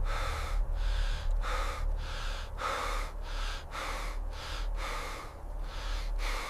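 A person breathing hard and fast, about two breaths a second, inhales and exhales alternating, over a steady low hum.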